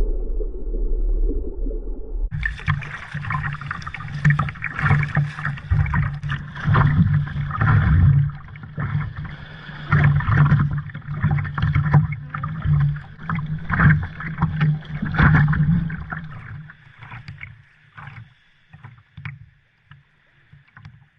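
Sea water sloshing and splashing around a sit-on-top kayak in choppy water, in uneven surges, turning louder and fuller about two seconds in and dying away over the last few seconds.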